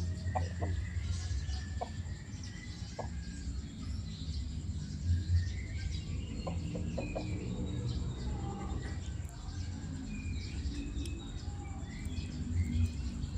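Chickens clucking now and then, with small birds chirping, over a steady low rumble.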